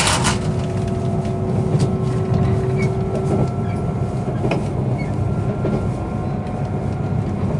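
Steady rumble inside a JR 485-series limited express passenger car, with a faint steady hum and a few light clicks.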